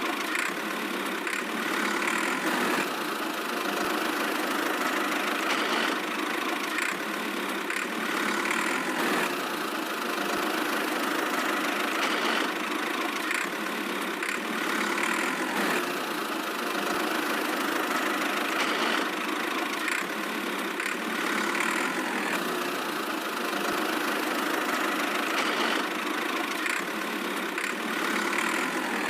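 Engine idling steadily, a tractor-like chugging running without letup.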